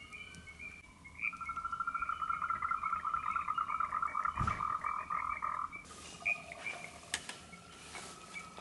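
Animal call: a rapid pulsed trill starts about a second in and runs for some four and a half seconds, over short repeated higher calls. A single low thump sounds midway.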